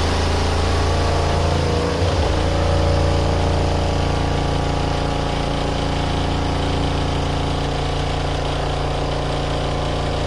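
Small portable washing machine's spin dryer running at speed during the final spin: a steady motor hum, with a slight change about two seconds in.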